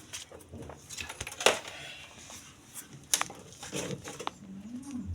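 Scattered sharp clicks and knocks of small hard objects being handled. The loudest comes about a second and a half in and another just after three seconds.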